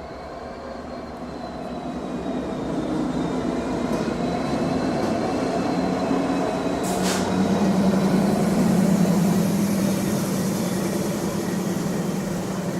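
A pair of CN diesel locomotives running light, growing louder as they approach and pass, with a steady engine drone and a thin high whine over it. There is one sharp clank about seven seconds in.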